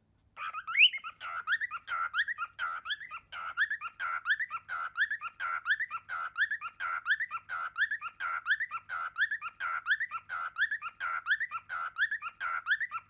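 A bird's short squeaky chirping call, repeated about three times a second in a steady rhythm, each call a quick rise and fall in pitch.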